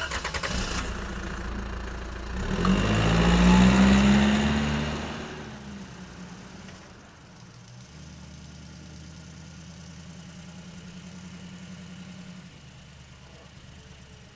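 A small motor running. It speeds up about two seconds in, is loudest around four seconds, then eases off to a steady hum, which drops a little near the end.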